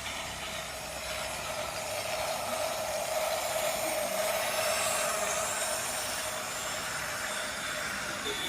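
Battery-powered toy steam train running, its small motor and gears giving a steady whirr with a hiss above it.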